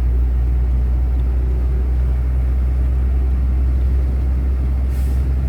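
Steady low drone of an articulated lorry's diesel engine and road noise, heard from inside the cab while driving, with a brief hiss near the end.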